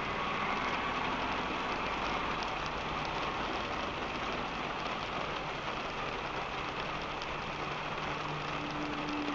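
Rain falling on a car heard from inside the cabin while driving: a steady hiss of rain with faint drop ticks over a low hum from the road and engine, which grows a little stronger near the end.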